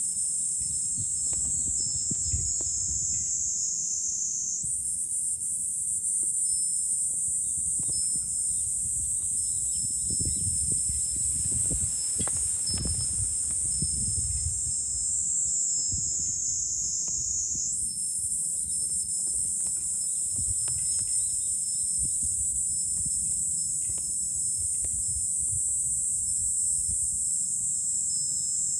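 Chorus of cicadas in midsummer, a loud high-pitched droning that slowly drops in pitch and jumps back up twice, about five seconds in and again near eighteen seconds. Under it is low gusty rumbling of wind on the microphone.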